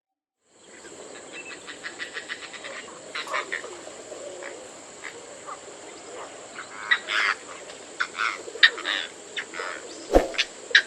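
Oriental darter calling: a rapid run of dry clicks, then repeated short croaking, rattling notes, over a steady high-pitched hiss. A single sharp knock sounds near the end.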